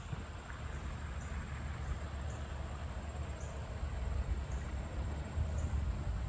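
Outdoor ambience: an uneven low rumble of wind on the microphone and a steady high-pitched whine.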